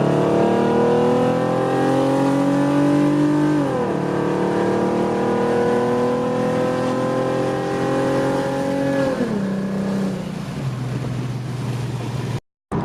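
A 2008 Ford Mustang's 4.0 V6 with long-tube headers, cat deletes, an X-pipe and Cherry Bomb glasspacks, heard from inside the car with the windows down while accelerating. The exhaust note climbs steadily, drops sharply with an upshift about four seconds in, climbs again, drops with a second upshift about nine seconds in, then holds steady. The sound cuts out briefly near the end.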